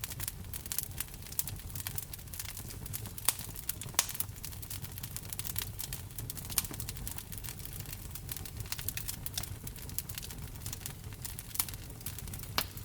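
Wood fire crackling in a fireplace: a steady low rumble of burning with frequent small snaps, and a few sharper pops, about three seconds in, about four seconds in and near the end.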